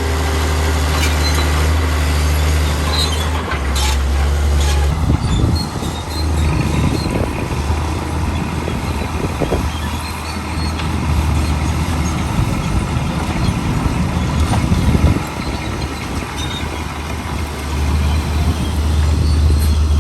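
Heavy diesel earthmoving machinery running. A steady low engine hum gives way, about five seconds in, to rough rumbling and clatter, then settles back to a steady hum near the end.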